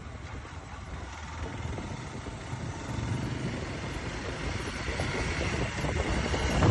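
Motorcycle engine running with wind rushing over the microphone, growing slowly louder.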